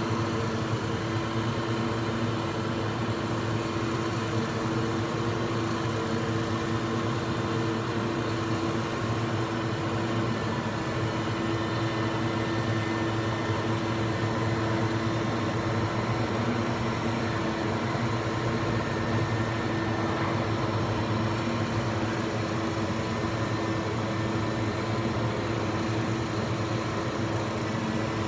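An engine running steadily at a constant speed, a continuous even hum.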